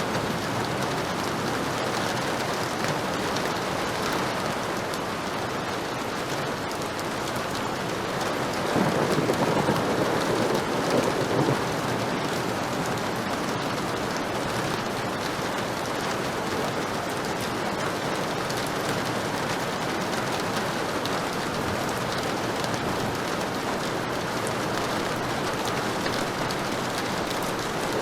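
Heavy rain falling steadily on surfaces, an even hiss with no let-up. About a third of the way in it swells louder for around three seconds.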